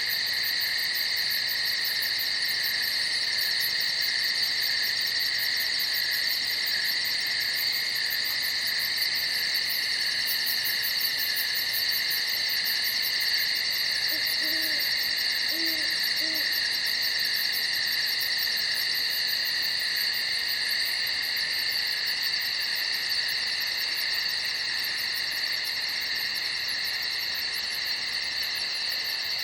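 Night chorus of crickets trilling steadily in several overlapping pitches. About halfway through come three short, low hoots.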